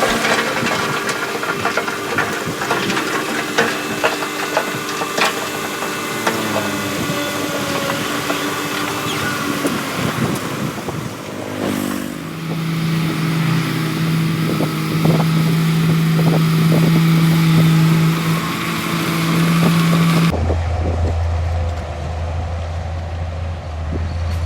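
Heavy construction machine's diesel engine running, with frequent knocks and clanks over the first half. About halfway through it settles into a steady low hum, and a few seconds before the end the sound cuts suddenly to a deeper, duller rumble.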